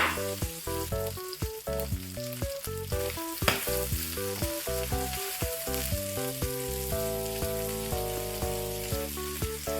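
Food sizzling as it fries in oil in a pan, under background music that plays a quick melody of short notes. There are two brief louder hisses, one at the start and one about three and a half seconds in.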